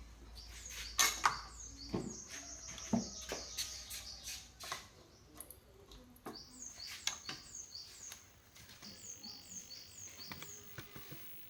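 Scattered sharp clicks and knocks of hard objects being handled, with a small bird chirping repeatedly: short, high, falling chirps in quick series.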